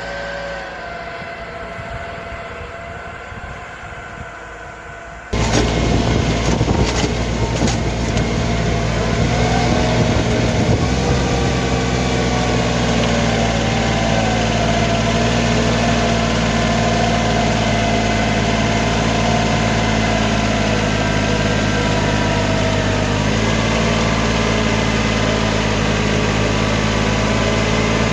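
LS MT225HE compact tractor's diesel engine running steadily, suddenly much louder about five seconds in, with a few sharp knocks just after.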